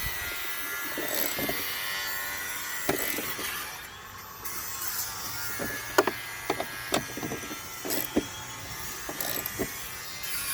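Sharp, irregularly spaced clicks and knocks of hand tools and bolts being worked while a bar is bolted onto a truck, starting about halfway through, over a steady background hiss.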